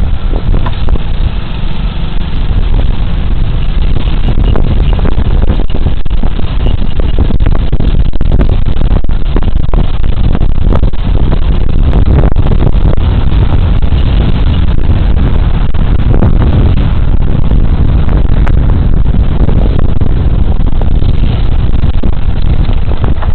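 Steady riding noise from a Suzuki Burgman Street 125 scooter under way: wind rushing and buffeting over a body-worn camera's microphone, mixed with the scooter's single-cylinder engine and road noise, dominated by a loud low rumble.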